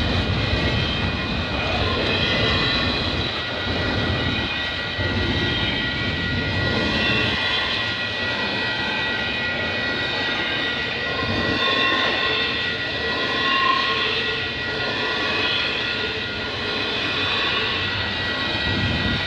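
Double-stack container cars of a CP freight train rolling steadily past at a level crossing: a continuous rumble and clatter of steel wheels on rail, with a steady high whine over it.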